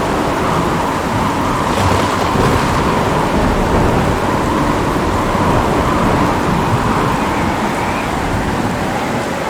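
Steady heavy rain with low rumbling thunder rolling underneath, with no sharp clap.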